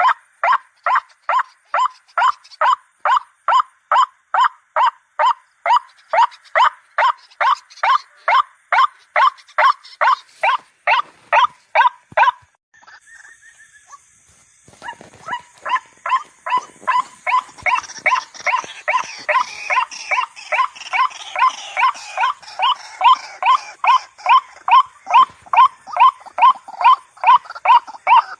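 Female white-breasted waterhen (ruak-ruak) calling: a fast, even string of repeated harsh notes, about two or three a second, of the kind used as a lure call. The calls stop abruptly a little before the middle and start again about two seconds later over a rougher background.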